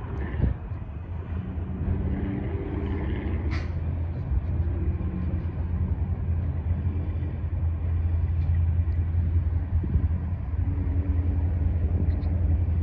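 Steady low rumble of a freight train moving off past a grade crossing, with cars driving over the tracks once it has passed.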